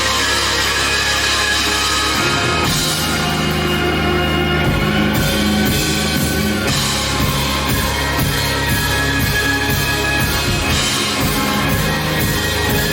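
Rock band playing live with drum kit and cymbals, loud and steady; regular cymbal strokes come in about five seconds in.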